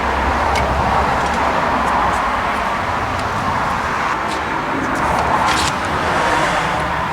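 A motor vehicle engine running steadily: an even noise with a low hum, and a few light clicks over it.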